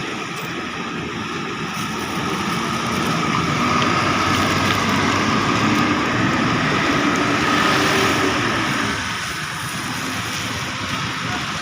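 Traffic on a rain-wet road: a motor vehicle passes, its engine and tyres swelling up in the middle and fading about nine seconds in, over a steady hiss of rain and spray.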